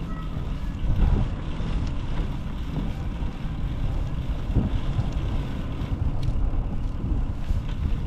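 Wind buffeting the microphone during a ride, a steady low rumble with a few stronger gusts, the loudest about a second in.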